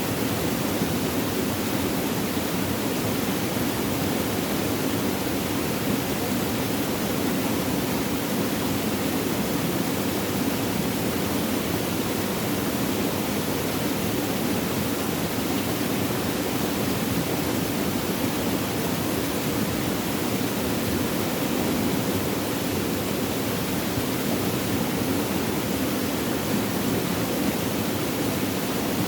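Flowing water running steadily, an even rushing without breaks.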